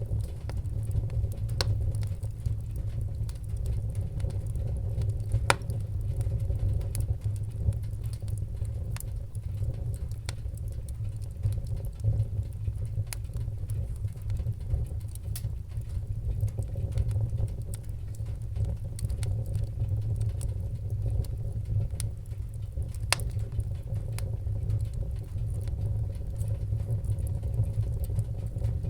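Wood fire in a fireplace crackling: irregular sharp pops and snaps, the loudest about five seconds in, over a steady low rumble.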